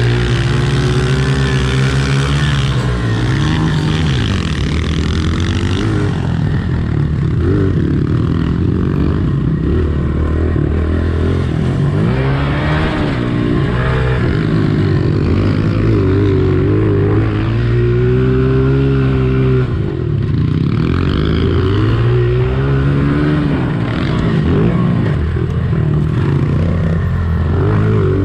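Four-stroke Honda pit bike engine being ridden hard, revving up and dropping back over and over as the throttle opens and closes and it shifts through the gears.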